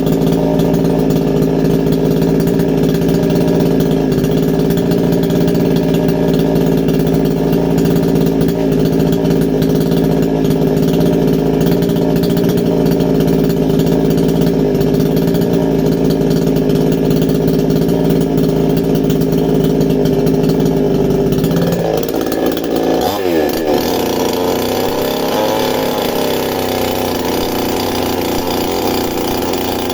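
Chainsaw running at a steady speed while working a wooden stump. About 22 seconds in its note sweeps and shifts, and it runs on at a different pitch.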